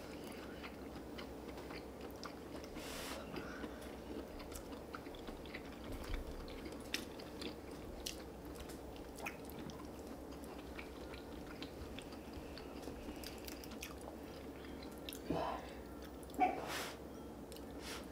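Close-miked chewing and biting of people eating cheese dakgalbi and rice cakes: soft wet mouth sounds and small clicks, with a few louder mouth sounds near the end.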